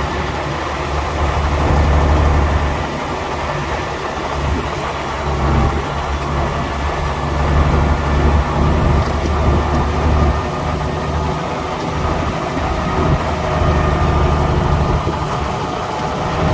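Heavy diesel engine of a bulldozer working, its load rising and falling every few seconds.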